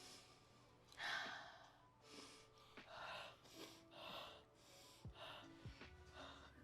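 Near silence, with faint short airy sounds coming about once or twice a second and a few faint held tones.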